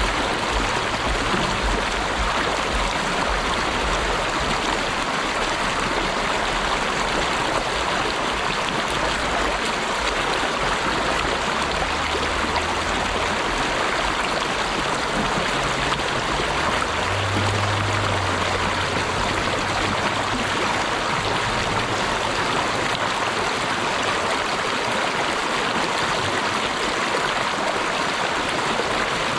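Steady rushing of running water from a stream, an even hiss with no breaks.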